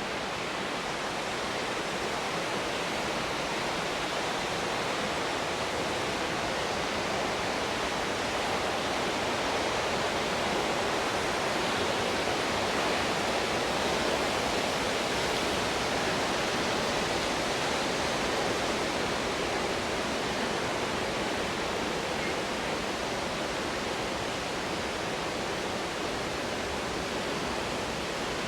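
Steady rush of a waterfall, an even hiss of falling water that grows slightly louder around the middle.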